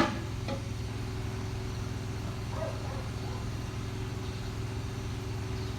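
Engine idling steadily, with a sharp click right at the start and a lighter one about half a second later.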